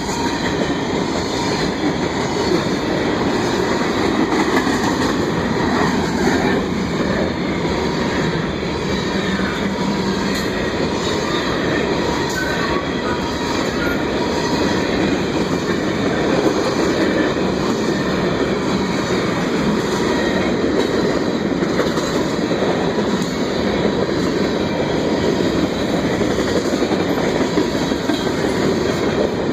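A train passing close by: railcars rolling on the rails in a loud, steady noise that keeps up without a break.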